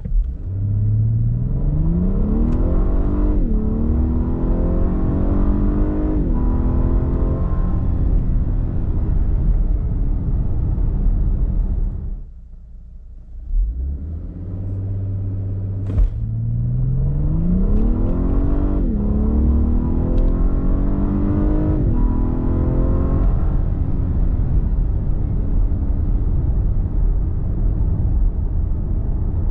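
The 3.5-litre twin-turbo V6 of a 2020 Lexus LS 500 F Sport accelerating hard, twice, with a short lull between. Each time the engine pitch climbs and drops back sharply at quick upshifts of the 10-speed automatic, then settles into a steady drone.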